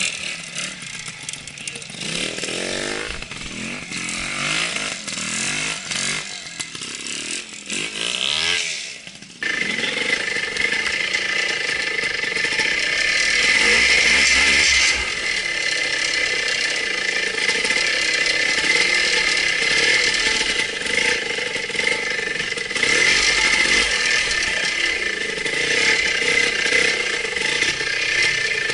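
Two-stroke trial motorcycle engine revving up and down in short bursts as the bike works through a wooded trial section. About nine seconds in, the sound switches abruptly to a louder, closer engine running more steadily with a constant whine.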